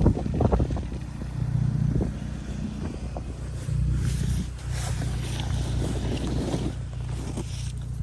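Volkswagen Passat R-Line's engine idling steadily, with short noisy bursts on top about halfway through and again near the end.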